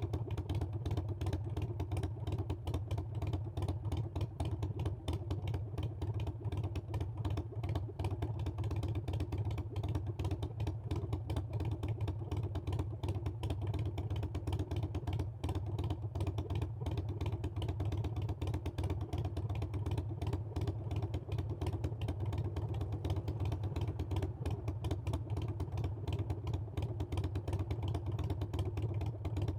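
Harley-Davidson Sportster Iron 883's air-cooled V-twin engine running steadily on the move, a low, even exhaust note with rapid firing pulses and no big changes in revs.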